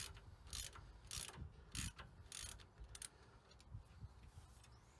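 Faint, short metallic scrapes and clicks of hand tools working on a car's steering tie rod, coming about every half second.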